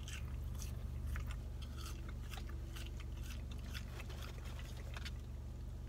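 A person chewing a mouthful of French fries, with small irregular mouth clicks, over a steady low hum.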